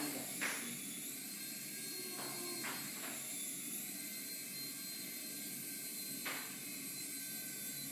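Small toy RC helicopter's electric motor and rotor whirring steadily in flight, with a few brief clicks.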